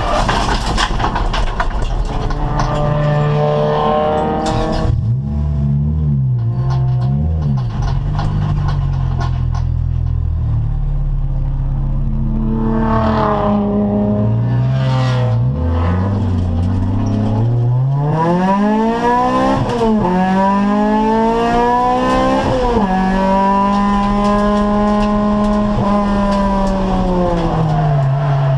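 Acura Integra race car's VTEC four-cylinder engine at racing speed. Revs drop and blip under braking early on and stay low through a slow stretch. Then they climb hard, with two quick upshifts, hold high and ease off near the end.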